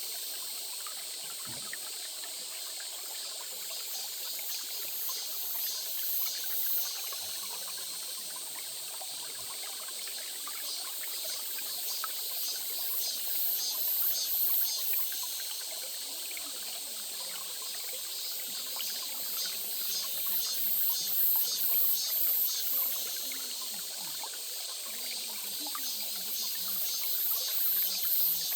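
A stream trickling and splashing steadily over stones. Above it, a high-pitched rapid pulsing chirr swells and fades several times.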